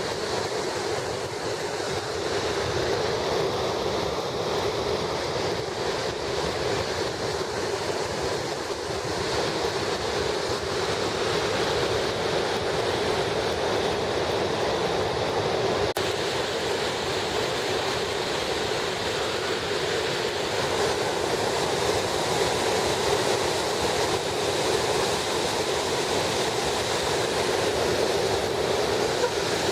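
The Fann waterfall rushing: a steady, unbroken roar of falling water.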